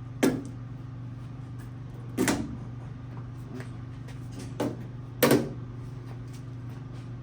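Three sharp knocks, one each near the start, about two seconds in and about five seconds in, with a fainter one just before the last, over a steady low hum.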